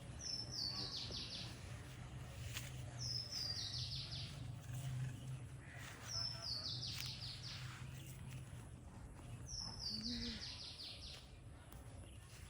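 A songbird singing the same short phrase four times, about three seconds apart: a quick run of high notes stepping down in pitch. A steady low hum lies underneath.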